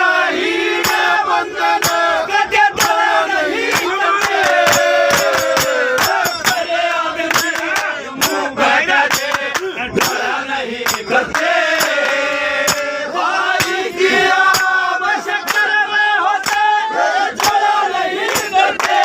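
Male singer performing the final verse of a Haryanvi ragni, accompanied by a steady run of sharp drum strokes.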